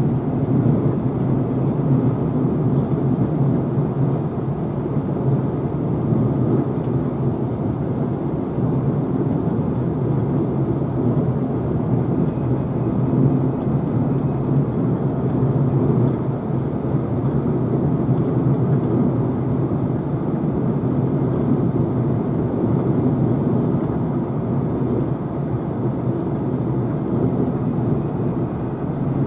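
Queensland Rail NGR electric multiple unit heard from inside the carriage while running at speed: a steady low rumble of wheels and running gear.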